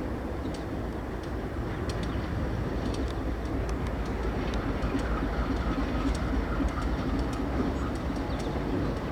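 Diesel freight locomotive running as it moves slowly through a rail yard, a steady low engine rumble with scattered short clicks.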